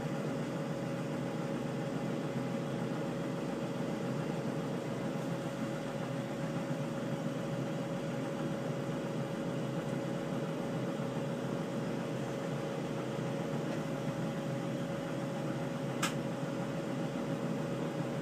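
Steady machine hum and hiss of a glass bead-making torch setup running, holding one constant tone throughout, with a single sharp click about 16 seconds in.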